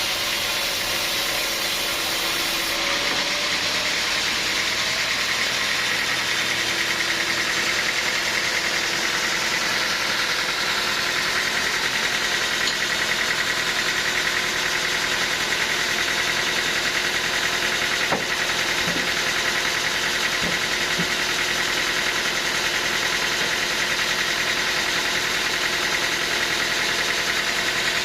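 Sawmill machinery running steadily, a continuous mechanical noise with a high whine that grows a little stronger partway through.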